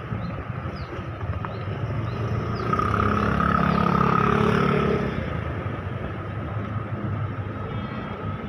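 A motor vehicle passes close by, its engine loudest for about two seconds a little before the middle, then fading back into the steady background noise.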